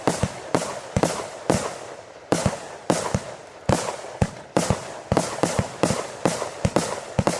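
Texas Outlaw Fireworks 'Blazin Gun' firework firing a rapid string of sharp reports, roughly two a second, with a crackling hiss between them.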